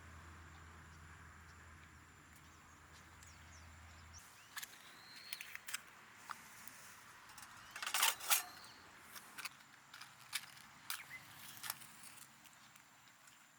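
Scattered sharp clicks and knocks, loudest in a cluster about eight seconds in, over a steady faint hiss; a low hum cuts off about four seconds in.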